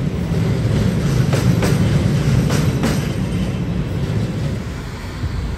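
Deutsche Bahn long-distance passenger train rolling slowly past: a steady low rumble with the wheels clicking over rail joints several times in the middle, fading toward the end.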